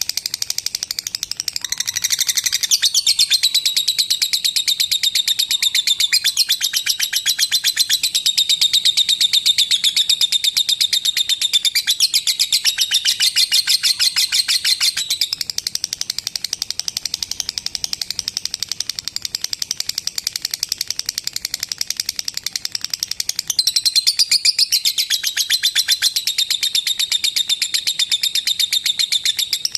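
Lovebird singing a long, unbroken ngekek: a fast, high chatter of rapidly repeated notes with no pause. It is louder for the first half, softer for a stretch, then swells again briefly.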